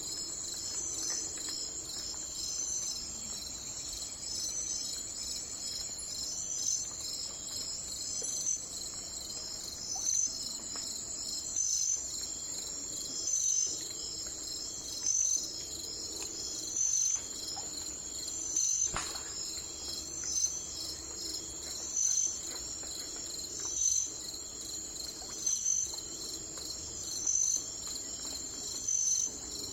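Night-time chorus of crickets chirring steadily, with a louder chirp repeating about every second and a half to two seconds, most distinct from about ten seconds in.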